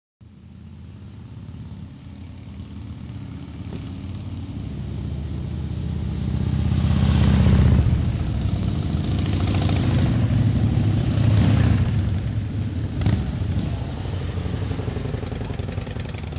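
Motorcycle engines running, growing steadily louder to a peak about halfway through, with a second loud swell a few seconds later before easing off, as bikes approach and pass.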